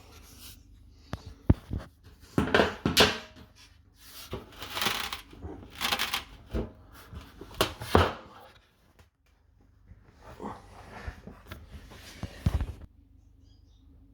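Metal dishwasher door panel knocking, rattling and scraping in irregular bursts as it is pushed and pulled to slide it off the door front, without coming free. The knocks stop about thirteen seconds in.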